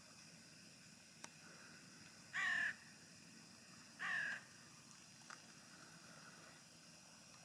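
A crow cawing twice, two short harsh calls a little under two seconds apart.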